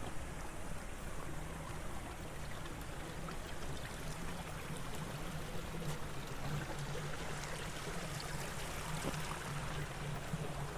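Water running steadily in an irrigation channel beside rice terraces, with a low steady hum underneath.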